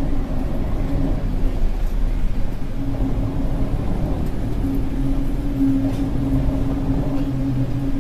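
Steady low rumble with a droning hum, like a ship's engine and hull heard on board in rough seas. The hum grows stronger about halfway through.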